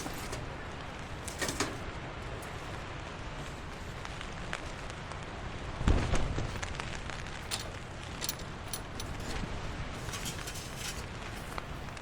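Heavy rain falling steadily, with scattered sharp drop taps and one louder dull thump about six seconds in.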